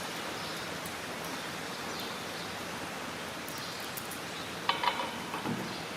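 Steady background hiss with a few faint ticks, then near the end a couple of short metallic clinks with brief ringing, as bolts are fitted loosely into the bar's holes.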